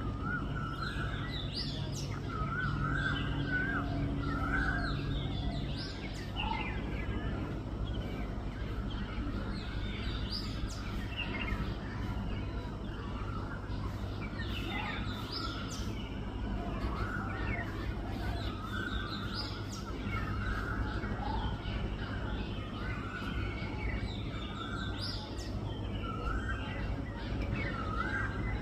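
Birds calling throughout: repeated wavering, fluty phrases and sharp chirps, over a steady low hum. A low droning tone runs through the first six seconds.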